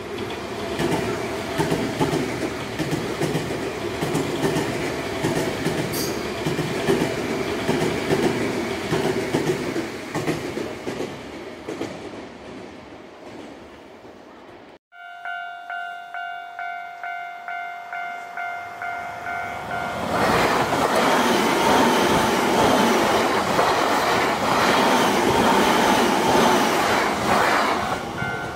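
An electric train runs past with rhythmic wheel clatter and fades away. Then a railroad crossing warning bell rings in steady pulses, about two a second, and a second train passes loudly over the crossing about twenty seconds in, the bell still ringing as it goes.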